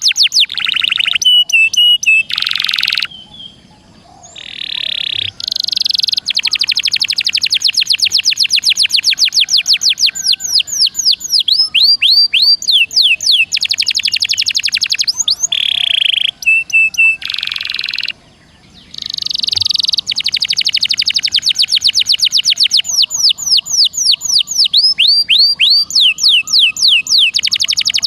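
Songbird song from a mix of icterine warbler, sikatan londo and canary: long, tightly packed trills of rapidly repeated high chirps and sweeping notes, many a second, broken by short buzzy phrases and two brief pauses.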